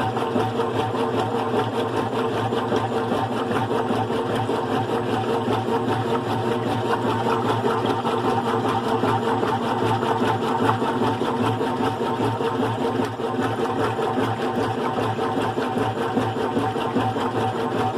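GE Profile top-load washing machine with a single-speed motor and agitator, running through a load of bedding: a steady motor hum with a constant churning drone.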